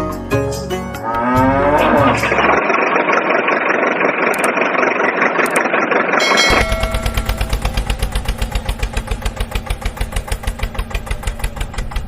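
A cow moos with rising calls, then a steady hiss for about four seconds. About halfway through, an engine starts idling with a quick, even chug of about five beats a second.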